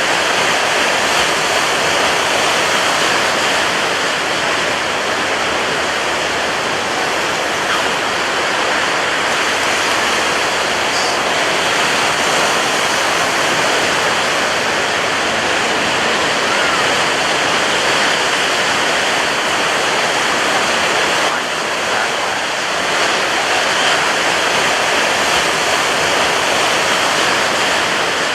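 Ocean waves breaking on a beach, heard as a loud, continuous wash of surf with no separate crashes standing out.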